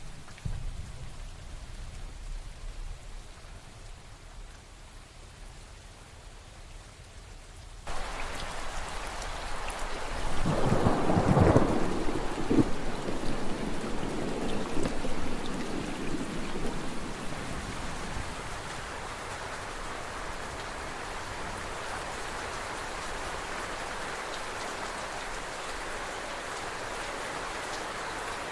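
Thunderstorm rain. A quiet low rumble gives way abruptly to rain hiss, and soon after a loud thunderclap rolls for several seconds before fading into steady rain.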